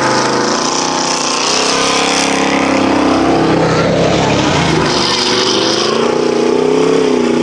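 Several eight-cylinder stock car engines racing at once, their overlapping notes rising and falling in pitch as the cars go by.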